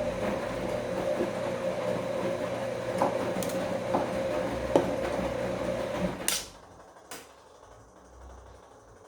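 Bosch washing machine's drum motor running with a steady whine and a few light knocks, then stopping suddenly about six seconds in, followed by two sharp clicks.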